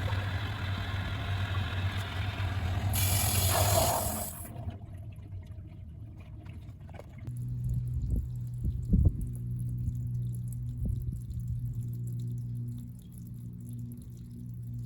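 Water rushing through a water heater's drain during a sediment flush, briefly louder before it cuts off suddenly about four seconds in. Then a steady low hum, with a single knock about halfway through.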